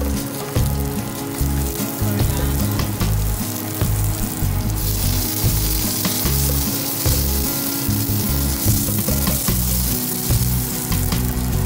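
Diced vegetables sizzling as they stir-fry in a stainless steel pan, stirred with a wooden spatula; the sizzle grows louder and brighter about five seconds in. Background music plays underneath.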